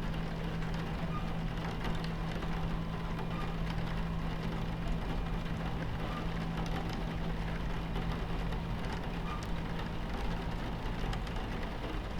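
Steady low rumble of a train running, with a constant low hum, and rain pattering on the carriage window in small scattered drops.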